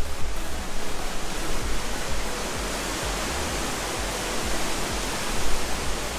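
Hurricane wind, a steady rushing hiss, with gusts rumbling on the microphone.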